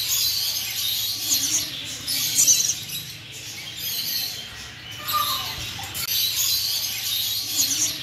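Birds chirping and chattering, with short high-pitched chirps about two and a half seconds in and again near the end, over a faint steady hum.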